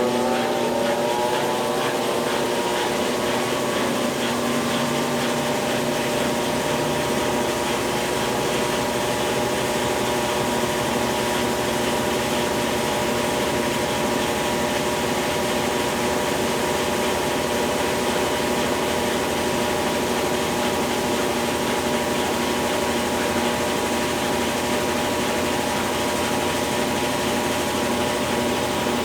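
Consul Facilite 10 kg CWC10 washing machine running after a mechanical overhaul, its motor and drive giving a steady whine that rises in pitch as it comes up to speed about a second in, then holds level.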